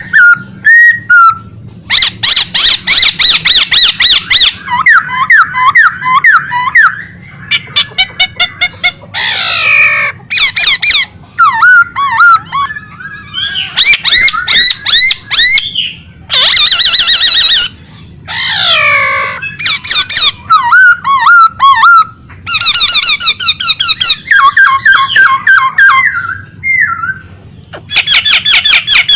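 Pet songbird singing loudly and continuously in varied phrases of fast repeated notes, trills and sweeping whistles: 'gacor', a bird in full song.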